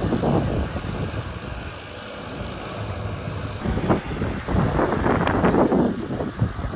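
Aircraft engines running at an airstrip, a noisy rumble that swells unevenly, loudest from about two thirds of the way through, with wind buffeting the microphone.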